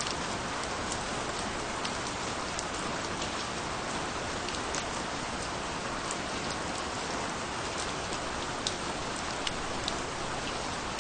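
Steady rain falling, an even hiss dotted with many sharp, separate drop ticks.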